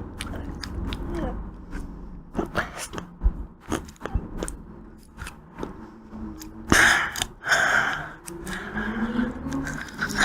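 Close-miked eating of ice cream: bites and chewing with many small crisp clicks and crunches, and a louder, noisier stretch of mouth sound about seven seconds in.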